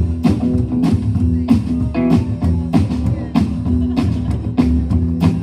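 Live band playing an instrumental passage: guitar over a steady drum beat of about two hits a second.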